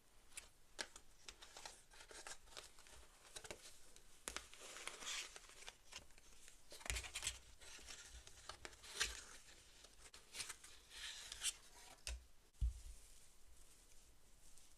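Hands handling toys and their plastic and card packaging: rustling, crinkling and clicking throughout, with a few low thumps about seven, nine and twelve seconds in.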